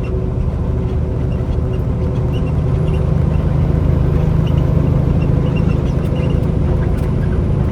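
Semi truck's engine and road noise heard from inside the cab at highway speed, a steady low drone that grows louder for a few seconds in the middle.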